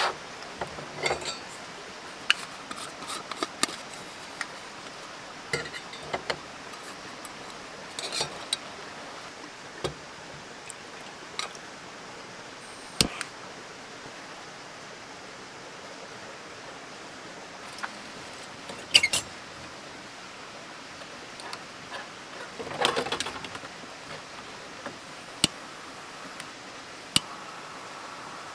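Camp gear being handled: scattered clinks, knocks and short clatters over a steady low hiss, with the busiest clatter about eight, nineteen and twenty-three seconds in.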